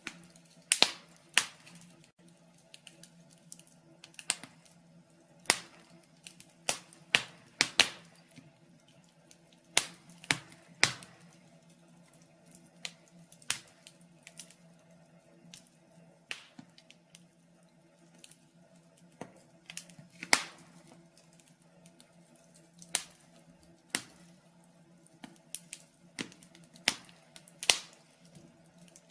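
Wood fire crackling in a fireplace: sharp, irregular pops and snaps, some much louder than others, over a faint steady low hum.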